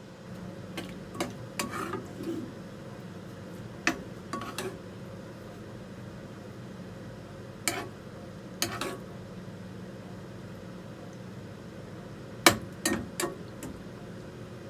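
Cooking utensil knocking and clinking against cookware, in scattered single strikes and short clusters, with the sharpest strike near the end, over a steady low hum.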